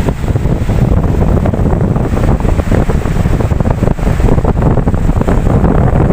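Ocean surf washing in steadily, with a heavy low rumble of wind buffeting the microphone.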